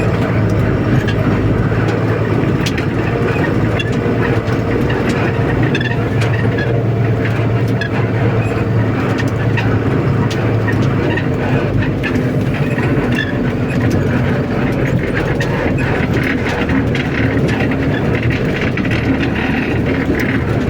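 Truck engine running steadily, with frequent rattles and knocks throughout.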